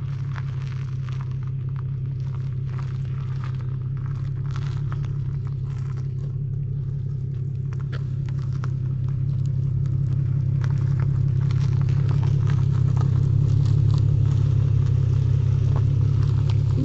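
Infiniti G37x's V6 engine running with a steady low drone that grows louder in the second half, with scattered crackling and rustling noises over it.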